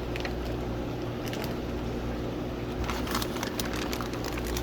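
Steady electrical hum, with scattered light crackles and rustles of a plastic fish bag being handled.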